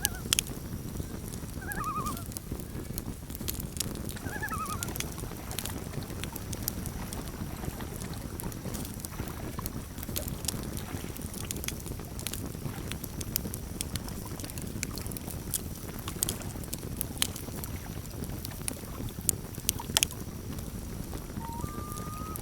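Campfire crackling, with scattered sharp pops over a steady low rumble. A few short bird calls come about two and four seconds in, and a longer, steadier call begins near the end.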